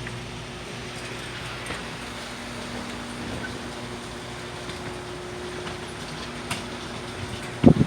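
Chamberlain LiftMaster Professional 1/2 hp chain-drive garage door opener running, a steady motor hum as the two-car door travels open. A loud low thump comes near the end.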